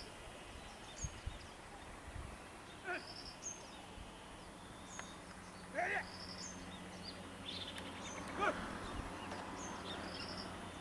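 Outdoor ambience with a bird repeating a short high chirp about every second and a half. A few louder arched calls come near the middle and toward the end, and a low steady hum sets in about four seconds in.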